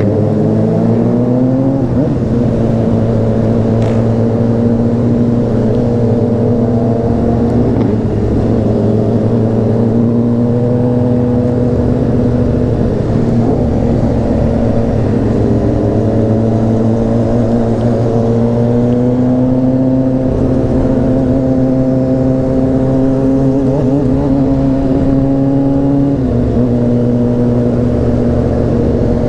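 Honda CBR600RR inline-four engine running at road speed, its pitch holding fairly steady and then climbing slowly, with a gear change near the start and another near the end.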